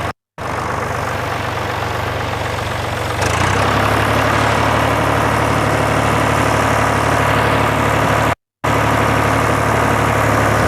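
Tractor diesel engine running steadily while driving, growing louder about three seconds in as the throttle comes up. The sound cuts out briefly twice.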